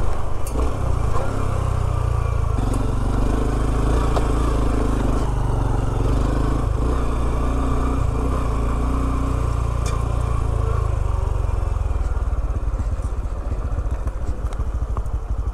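Honda CT125 postie bike's single-cylinder engine running at low speed while riding a rough dirt track, with a steady low rumble and a few sharp clicks and knocks.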